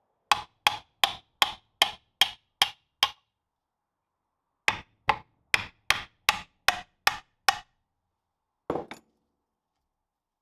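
Hammer blows: two runs of about eight quick, evenly spaced strikes with a pause between, then a single duller knock near the end.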